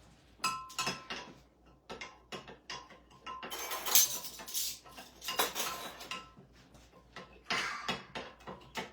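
A utensil stirring liquid in a mixing bowl, clinking and scraping irregularly against its sides, with two longer scraping stretches in the middle and near the end.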